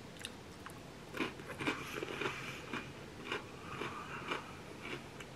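Close-up chewing of a hard salted-caramel-coated pretzel: the first crunches start about a second in, then go on as a string of irregular crunches while it is chewed.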